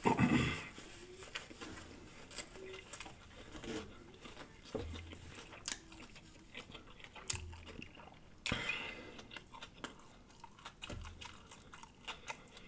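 Close-miked mukbang eating sounds: food being chewed and crunched, with scattered sharp mouth clicks and a few short louder bursts.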